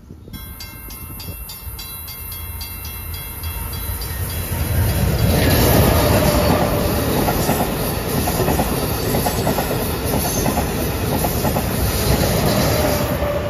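Grade-crossing bell ringing at an even rapid beat as an Amtrak Acela electric trainset approaches. The train then passes at speed close by, a loud steady rush of wheels on rail and air that builds about five seconds in and holds nearly to the end.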